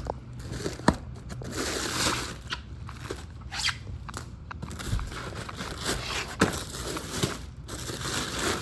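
Handling noises from unpacking parts: rustling and scraping of packaging, with scattered sharp knocks and clicks.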